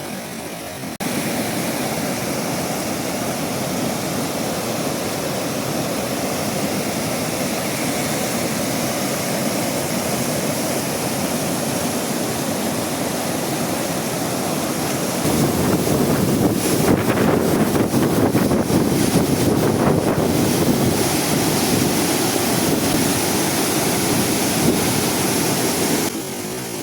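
Waterfall's rushing water, a steady roar that steps up in loudness about a second in and again about halfway through, then drops back just before the end.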